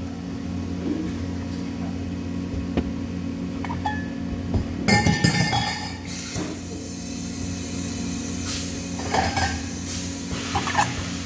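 Several light metallic clinks and knocks, with a louder cluster about halfway through and more near the end, over a steady low hum: metal pieces handled in a welding shop.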